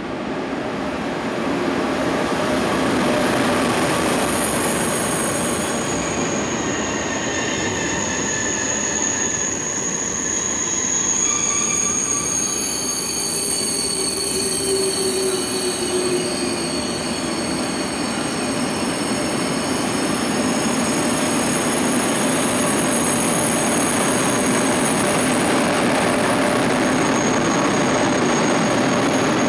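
Two coupled TGV Duplex Dasye double-deck high-speed trainsets running along the platform past the listener. A steady rolling rumble grows louder over the first couple of seconds, with thin high-pitched squealing from the wheels and running gear above it.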